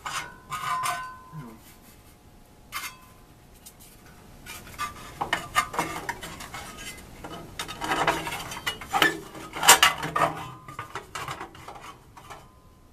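Sheet-metal access doors of a gas water heater being handled and fitted into place: scattered metal clanks and scrapes, growing into a denser clatter about five seconds in.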